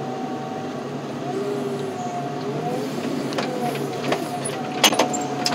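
Heavy loader's engine running steadily, with a whine that shifts up and down in pitch and a sharp click or two near the end.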